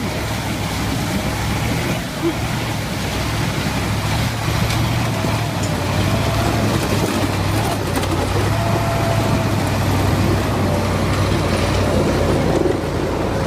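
A motor vehicle's engine running steadily with road noise.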